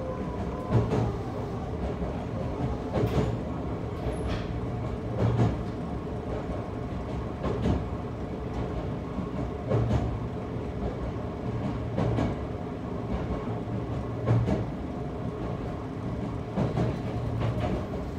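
Toei 5300 series commuter train (Mitsubishi GTO-VVVF set) running, heard from inside the passenger car: a steady rumble with a sharp wheel clack about every two seconds as the train pulls into the terminal platform.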